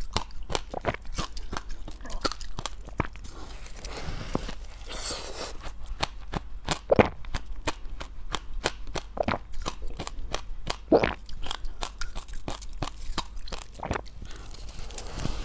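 Close-miked crunching and chewing of dry, powdery freezer-frost ice: a rapid, uneven run of crisp crunches, with two louder bites about seven and eleven seconds in.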